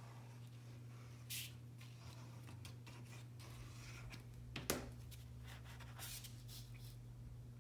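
Sheets of paper being handled and slid into place on a craft table: a few short rustles and one sharp tap about two-thirds of the way through, over a steady low hum.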